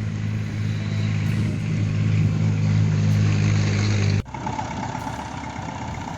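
An engine running steadily with a low, even hum that grows a little louder, then cut off abruptly about four seconds in, leaving a quieter steady background noise.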